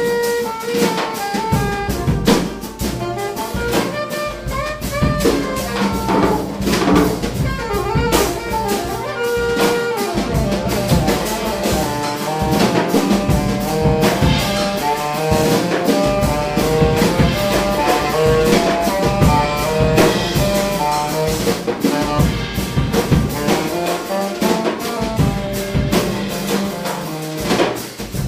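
Live jazz from a quartet: saxophone playing over two drum kits with guitar, the drums keeping up a dense stream of strokes throughout.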